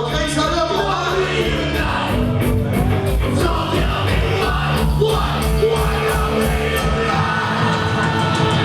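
Punk band playing live and loud: drums keeping a steady beat under sustained guitar chords, with vocals over the top.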